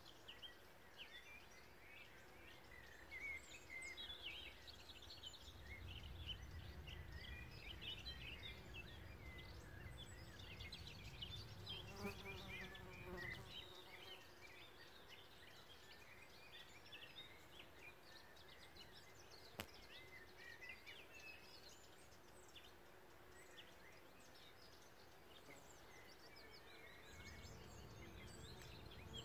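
Faint buzzing of bees working flowering faba beans, the hum swelling in the middle and again near the end, with many small birds chirping and singing throughout.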